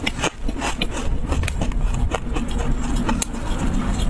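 Close-miked chewing of a crunchy mouthful, a run of crisp crunches several times a second, over a steady low hum.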